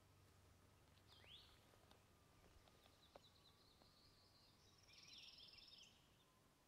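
Faint songbird calls over a very quiet background. There is a single swooping call about a second in, then a run of quick notes leading to a louder trill near the end.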